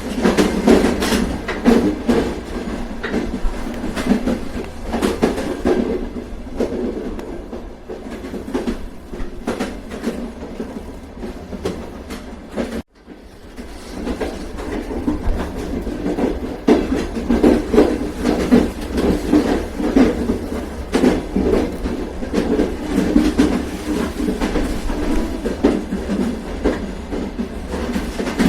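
Train running on rails: a steady rumble with the rapid clickety-clack of wheels over the rail joints. The sound cuts out for an instant about halfway through and then resumes.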